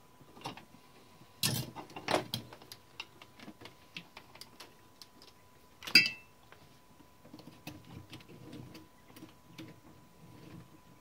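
Small metallic clicks and taps of typewriter key parts being handled and fitted: glass key tops and their metal rings going onto the key levers of a 1912 Mercedes No. 3 typewriter. A few louder knocks about a second and a half in, and a sharp click that rings briefly about six seconds in.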